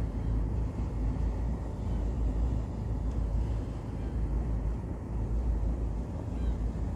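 A ship's engine running steadily, a low, even rumble.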